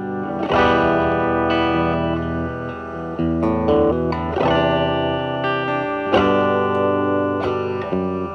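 Electric guitar (Telecaster) through a Mosrite Fuzzrite clone fuzz pedal and a Marshall Valvestate amp's drive channel, playing a slow bluesy phrase of picked notes, each left to ring. The fuzz is cleaned up with the guitar's volume, giving a lighter, grittier crunch rather than full fuzz.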